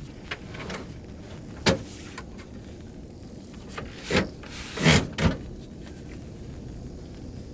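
Four knocks over a steady hiss: a sharp knock about two seconds in, then three heavier thumps close together between four and five and a half seconds in.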